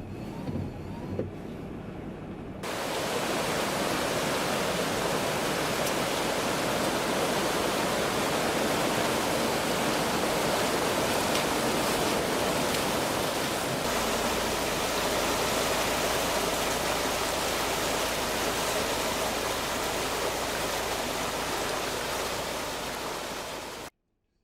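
Loud, steady rushing noise of the typhoon storm, starting abruptly a few seconds in and cutting off suddenly near the end.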